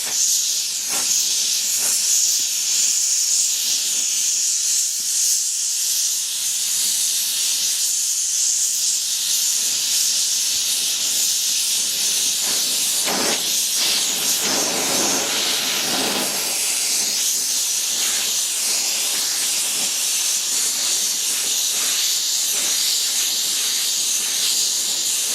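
Oxy-fuel torch flame hissing steadily as it heats a cast iron pulley before brazing, with a brief rougher patch about halfway through.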